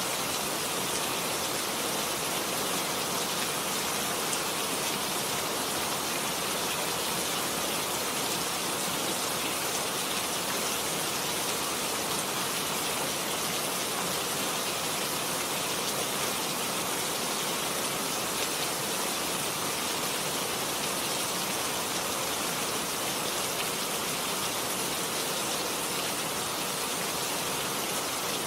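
Steady rain falling, an even unbroken hiss with no pauses.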